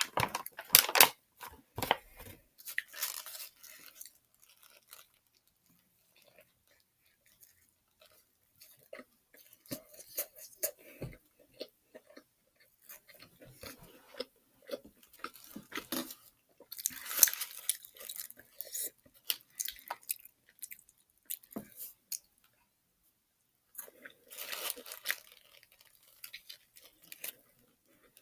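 Chewing a Popeyes fried chicken sandwich, with crunches of the crispy breading coming in irregular clusters separated by quieter stretches.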